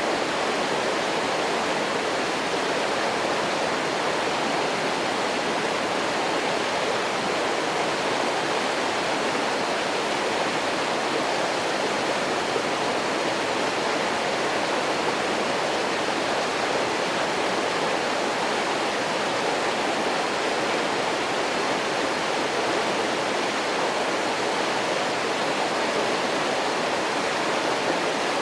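A waterfall rushing and splashing steadily.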